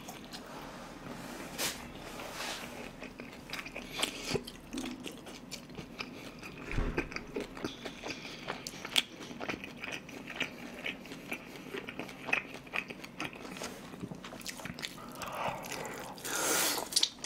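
A person chewing food close to the microphone, with many small wet mouth clicks. Near the end comes a louder crunchy bite into crispy fried glutinous-rice pork (guobaorou).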